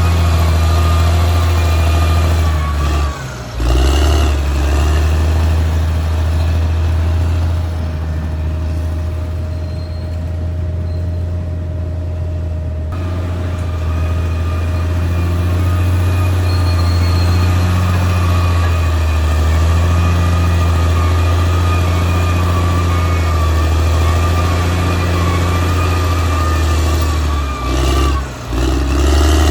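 Caterpillar D6R XL bulldozer's diesel engine running steadily with a deep hum, dipping briefly in loudness about three seconds in and again near the end.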